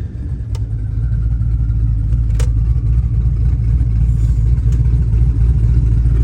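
Twin-turbo LS3 V8 in a 1971 Chevelle idling with a steady low rumble, settling after a rev. A few faint sharp clicks.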